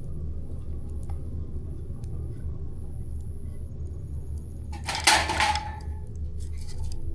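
Campfire burning with a steady low rumble and faint scattered crackles, broken about five seconds in by one loud, sharp clattering burst lasting about half a second.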